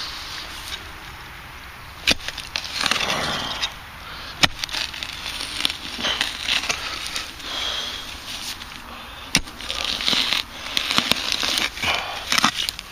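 Digging and scraping in pasture soil to free a buried object, with crunching scrapes and a few sharp knocks.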